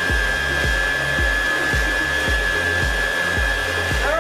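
Soft bonnet hair dryer running steadily just after being switched on: a rush of blown air with a steady high whine from its motor. A regular low beat, about two pulses a second, runs underneath.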